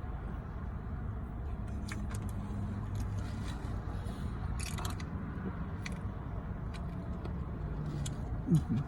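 Eating noises from a chicken sandwich, scattered small clicks and rustles, over a steady low rumble. A short voiced hum is heard near the end.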